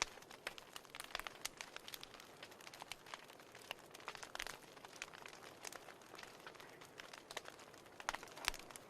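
Wood fire crackling in a fireplace: irregular snaps and pops over a soft hiss, with one louder pop about eight and a half seconds in.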